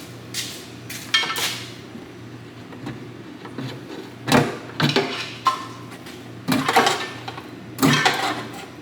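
Irregular metal clanks and knocks of hand tools against the pulled engine as a stuck part is worked loose, with a steady low hum underneath.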